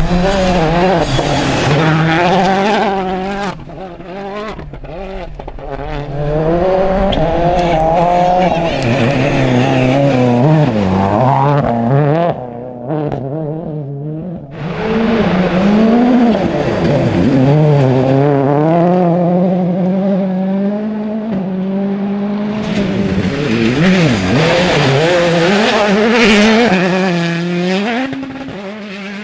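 Rally car engines at full throttle on a gravel stage, the pitch climbing and dropping again and again through gear changes and lifts. There is a short lull about twelve seconds in, then the next hard run.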